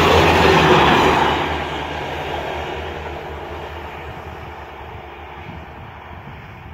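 Diesel multiple unit passing close at speed: a low engine drone and wheel-on-rail rumble, loudest in the first second or so, then fading steadily as the train draws away.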